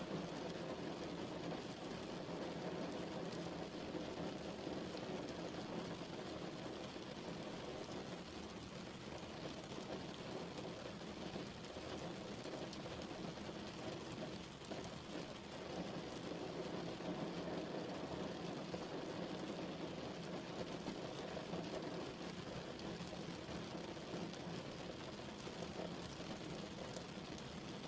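Steady rain falling on a surface, a dense, even patter with no break.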